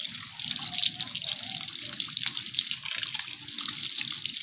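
Water running and splashing as mud is washed off hands and legs.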